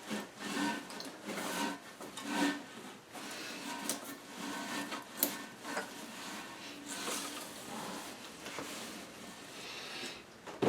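Rubbing, rustling and light clicks and knocks of hands handling parts and a towel around a toilet tank, irregular throughout, with a sharper click at the very end.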